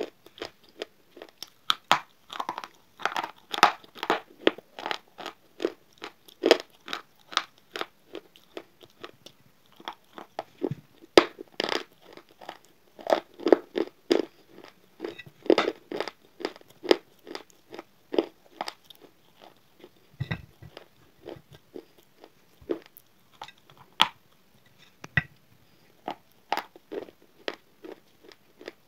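A person biting and chewing a white slate bar: a fast run of sharp, crisp crunches, several a second, growing sparser in the last third.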